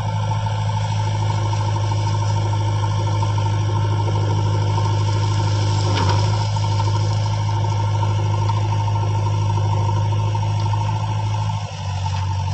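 A heavy vehicle's engine running at a steady pitch, with a brief sharp click about six seconds in and a short dip in level near the end.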